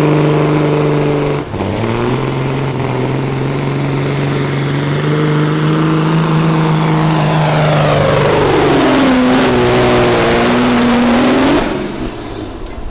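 Semi truck's diesel engine running hard under load while pulling the sled, its pitch steady apart from a short dip about a second and a half in. About 8 seconds in the revs sag and hold low as it bogs down, then the engine note cuts off sharply near the end.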